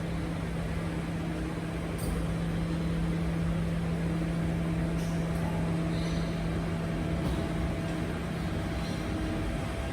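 Garbage truck running with a steady low hum over a rumble, with a few short faint clicks or hisses.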